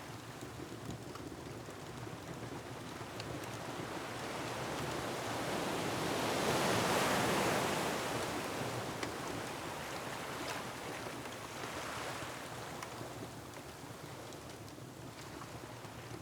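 Ocean waves surging against a rocky shore: one wave swells to a peak about seven seconds in and slowly recedes, with a second smaller surge near twelve seconds. Sharp, scattered crackles of a wood fire sound over the surf.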